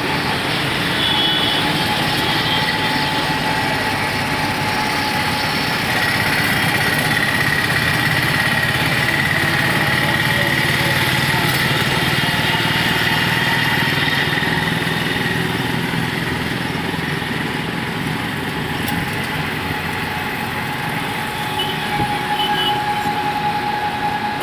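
Small auto-rickshaw engine running steadily, heard from on board during the ride, with road noise around it.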